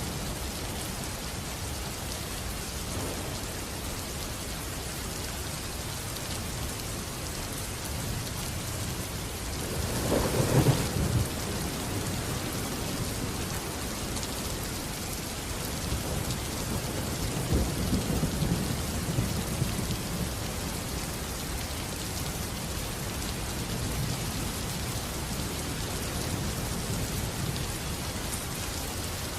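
Steady heavy rain with thunder: a sharp clap about a third of the way in, and a longer low rumble a few seconds later.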